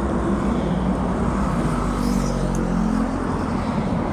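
Road traffic and vehicle engines running, with a steady rush of noise; one engine's pitch shifts about two to three seconds in.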